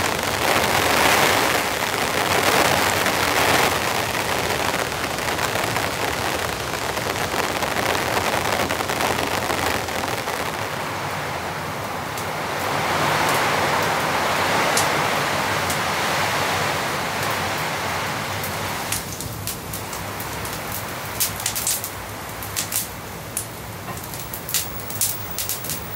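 Heavy rain falling steadily, swelling and easing. Near the end the rain sound drops back and a wood fire in a fireplace crackles and pops.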